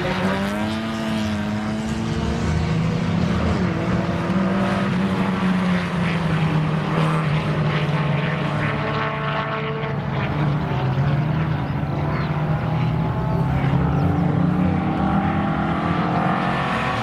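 Engines of classic cars driving a cone course, revving up and falling back again and again as they accelerate and brake, with more than one car running at once.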